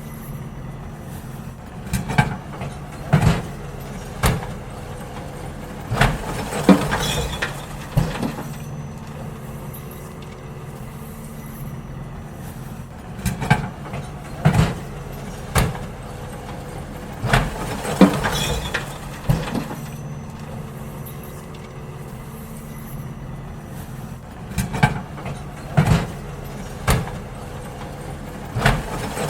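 Garbage truck engine running steadily, with three bouts of loud clanks and bangs as wheelie bins are lifted and emptied into the hopper.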